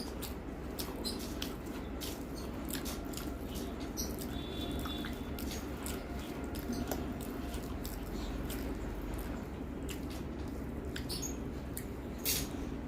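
Close-up chewing and mouth sounds of a person eating rice and curry: many small wet clicks and smacks at irregular intervals, over a steady low hum.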